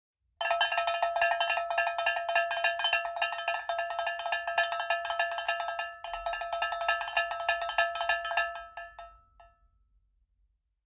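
A ringing metal object struck in a long run of quick, rapid-fire hits, each ringing at the same pitch. The hits stop abruptly and the ring dies away over the next second or so.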